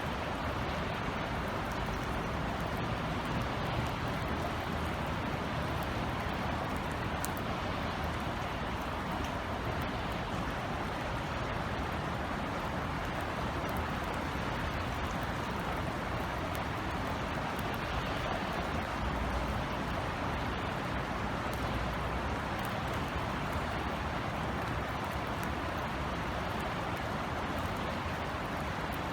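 Rain falling steadily: a continuous even hiss with scattered faint drop ticks, over a low rumble.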